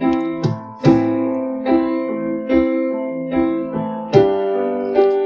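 Music: an instrumental piano interlude in a slow ballad, with chords played in a steady rhythm, a new chord struck about every second, between sung lines.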